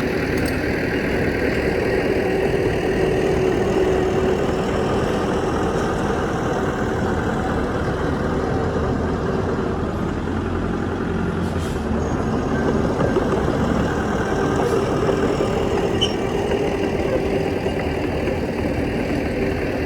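Heavy diesel earthmoving machinery running steadily, with a few faint ticks partway through.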